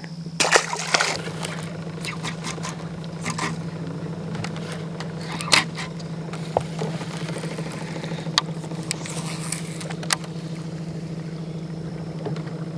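Boat motor running with a steady low hum, with scattered clicks and scrapes over it.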